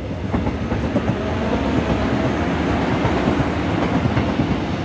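Electric commuter subway train passing close by on the track: steady rumble with fast, dense clattering of the wheels over the rails, getting slightly louder.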